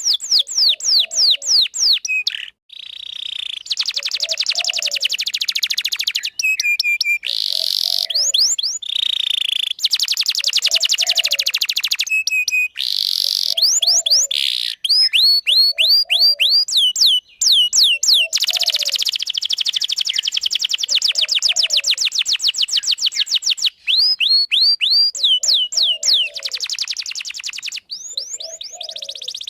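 Domestic canary singing a long, loud song: fast trills and runs of rapid high notes that each sweep downward, with only brief pauses.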